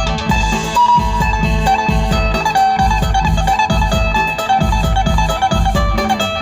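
Thai phin, the plucked Isan lute, playing a quick melody of plucked notes over a steady low beat.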